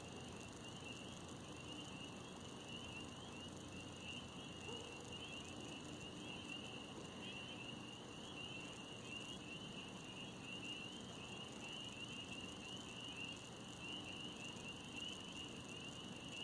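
Faint chorus of crickets trilling steadily in the woods, a continuous high, fast-pulsing chirr.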